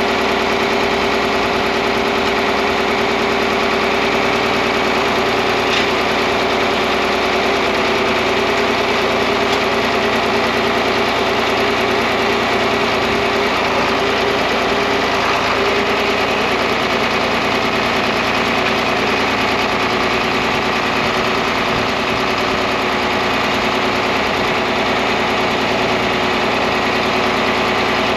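John Deere 4010 tractor engine running steadily at an even idle, with no change in speed.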